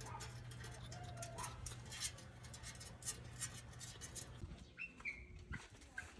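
A small dog, likely the puppy, whimpering: a few short, high-pitched whines and yelps, one about a second in and a couple more around five seconds in, over a steady low hum.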